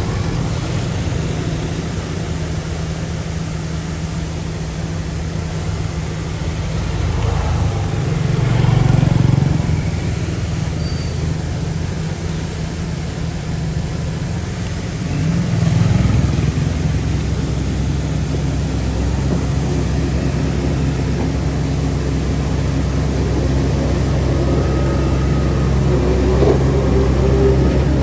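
Heavy diesel earthmoving machinery running steadily, the engine note swelling under load twice, about a third and just over halfway through.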